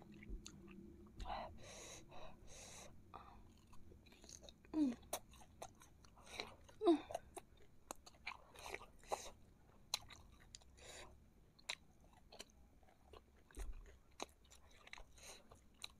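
Close-miked chewing of sauce-coated fried meatballs (bakso goreng): scattered wet smacks and small clicks of the mouth. Two brief, louder mouth sounds come about five and seven seconds in.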